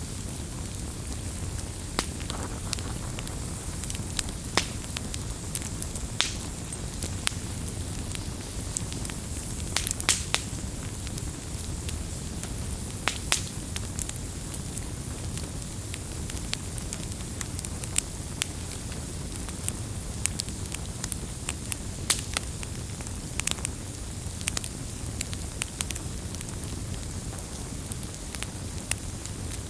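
Firewood burning in a fire: a steady low rumble of flame with scattered, irregular sharp crackles and pops from the wood, a few of them louder than the rest.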